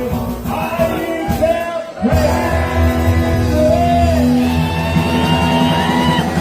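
Rock band playing with singing; from about two seconds in, a long note is sung and held over a steady chord.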